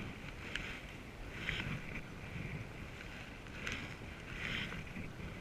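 Canoe paddle strokes in water: repeated splashing swishes about once a second, with a few light clicks.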